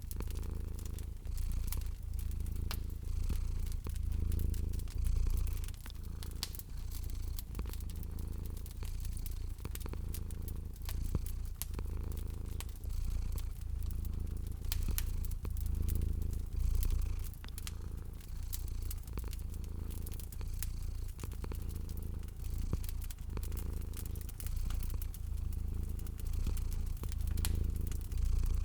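Domestic cat purring, a low rumble that swells and fades with each breath, with a wood fire crackling and popping throughout.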